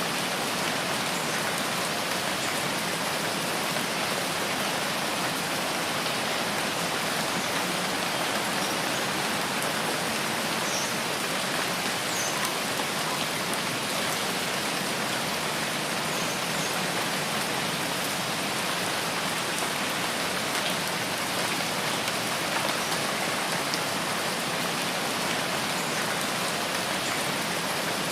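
Steady rainfall in a rain forest, an even, unbroken hiss of drops.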